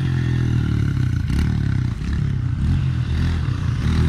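Dirt bike engine running and revving, its pitch rising and falling.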